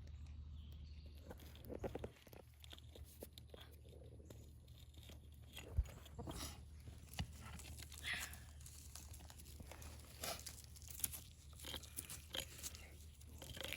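Irregular crunching and scraping of digging through soil and rocks, with a sharp knock about six seconds in.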